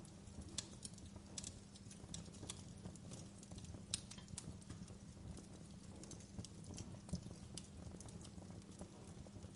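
Wood fire burning in a fireplace: irregular sharp crackles and pops over a low, steady rumble, with one louder pop about four seconds in.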